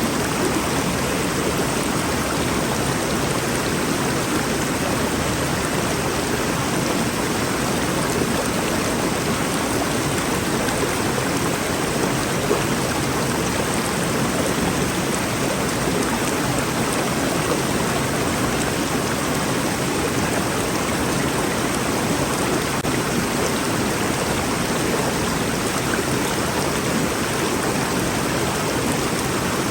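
Rainforest river water rushing steadily over rocks, a constant even rush with no letup.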